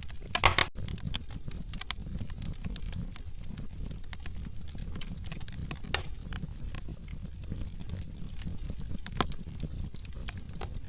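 Burning logs crackling in a fireplace: scattered sharp pops and snaps, a louder burst of crackles about half a second in, over a steady low rumble.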